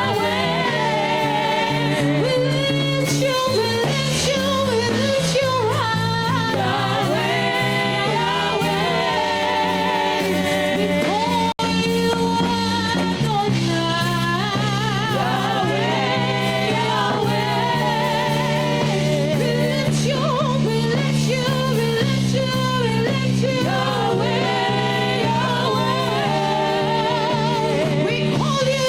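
Gospel worship music: wavering, drawn-out singing over held chords that shift every few seconds. The sound drops out for an instant about eleven and a half seconds in.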